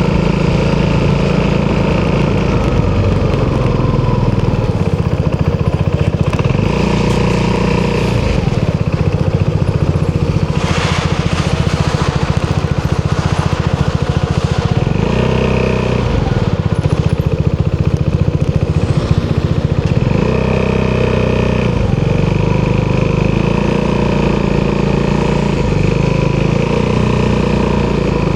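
Single-cylinder four-stroke engine of an Italjet Dragster 200 scooter running through an Akrapovič exhaust at low, steady revs, as in slow riding or idling. About halfway through and again about two-thirds through, the revs rise briefly and drop back.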